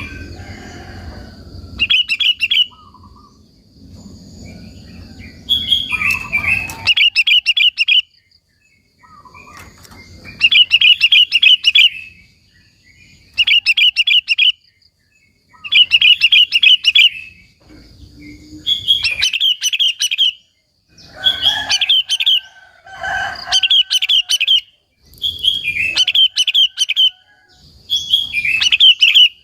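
Sooty-headed bulbul (kutilang) singing loudly: short bubbly, trilling phrases, each a second or two long, repeated about every two to three seconds.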